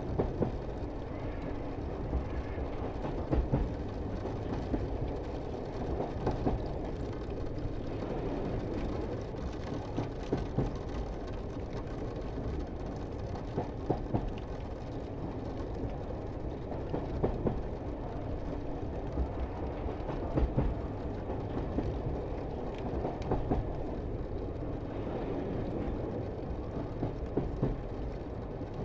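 Pike's Peak Cog Railway train running, heard from on board: a steady low rumble with irregular louder knocks and clatter every few seconds.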